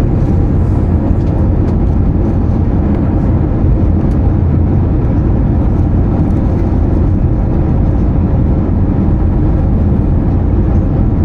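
Steady low rumble of cabin noise inside an Airbus A320-214 in flight: airflow over the fuselage and its CFM56-5B engines, with no distinct events.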